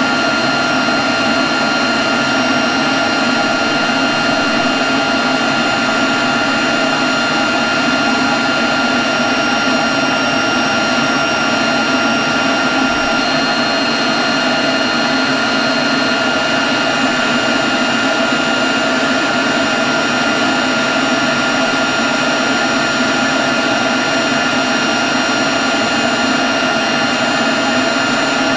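Leaf blower running steadily at constant speed: a rush of air with a steady high whine on top.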